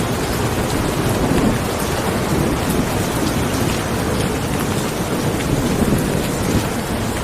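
Steady heavy rainfall, with many separate drop ticks over a continuous low rumble.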